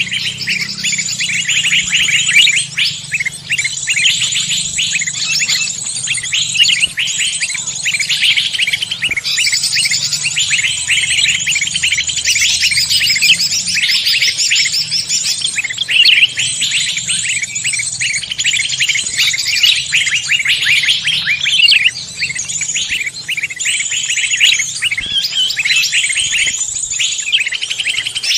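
A dense chorus of songbirds: many rapid chirps, whistles and trills overlapping without pause, as played for luring wild birds.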